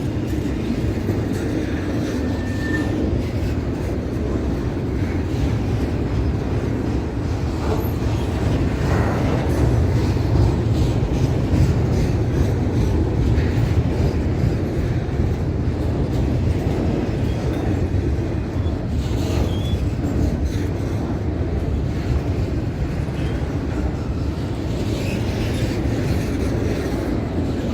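A train rolling past with a steady low rumble of wheels and cars on the track, and a brief thin squeal about three seconds in.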